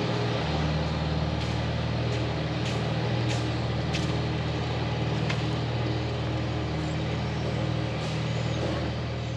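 A farm machine's engine running steadily, with a few light clicks and knocks over the first half.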